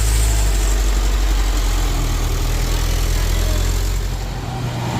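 Heavy vehicle engine running with a steady low rumble, easing off about four seconds in.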